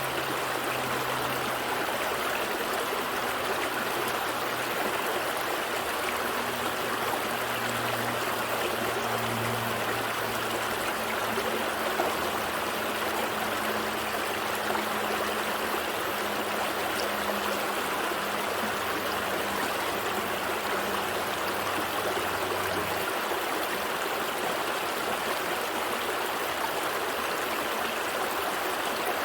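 Gentle stream flowing with a steady rush of water. A low hum sits underneath it and cuts off suddenly about three-quarters of the way through.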